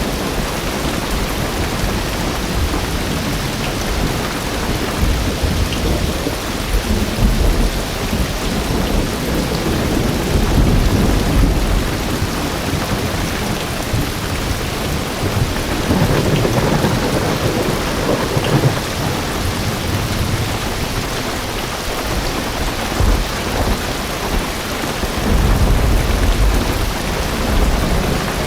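Heavy rain drumming steadily on a car's roof and windows, heard from inside. Deep rumbles of thunder swell up about three times.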